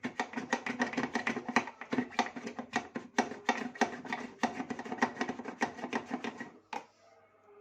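A brush scrubbing quickly and repeatedly inside a washing machine's detergent drawer recess, loosening built-up detergent residue. The scrubbing stops with a knock about six and a half seconds in.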